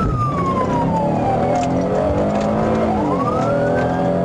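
Police car siren on a slow wail, its pitch falling for about two seconds and then rising again near the end, over a car engine running.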